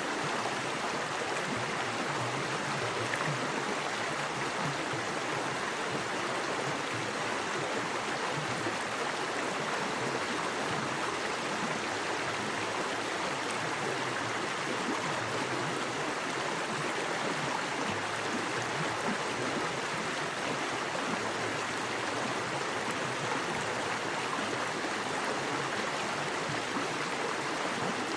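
Small woodland creek running fast over rocks, a steady, even rush of water.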